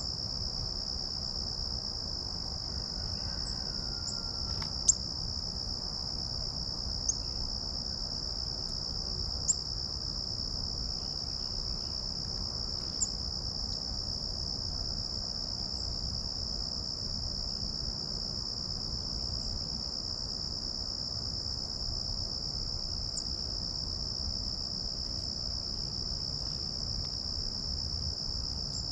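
A steady, high-pitched insect chorus that drones on without a break. A few short, sharp bird chips break in during the first half.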